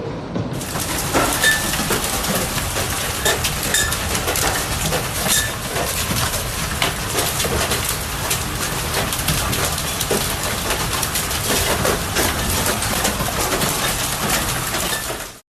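Hailstones pelting down: a dense clatter of countless small impacts over a steady hiss of falling ice and rain, which cuts off suddenly near the end.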